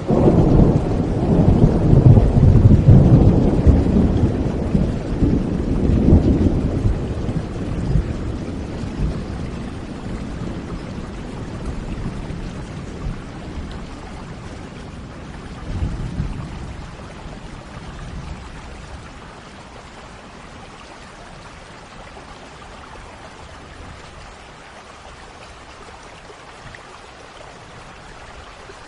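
Thunder rumbling over steady rain: a loud, deep rumble that dies away over the first eight seconds or so, a smaller rumble around the middle, then the even hiss of falling rain.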